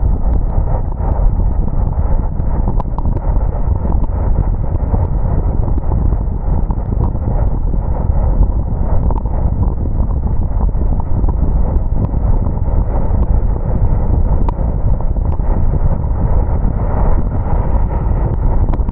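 Car driving on a wet road: a steady low rumble of tyre and road noise with wind buffeting on the microphone.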